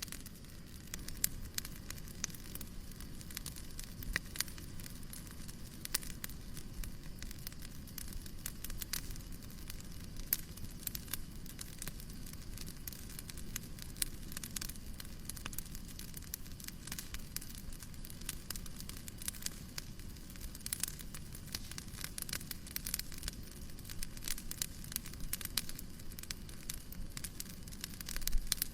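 Wood fire crackling, with irregular sharp pops and snaps over a steady low rushing hiss; a quick cluster of louder pops comes near the end.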